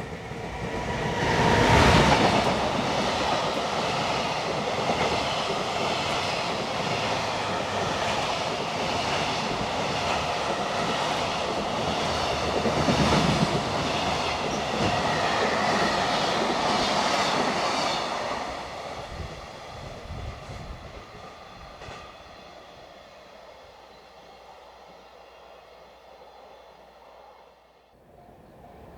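Electric freight train passing close by: a loud rise as the locomotive goes past about two seconds in, then a steady rumble of the wagons with a clickety-clack of wheels over the rail joints. It fades away over the last ten seconds.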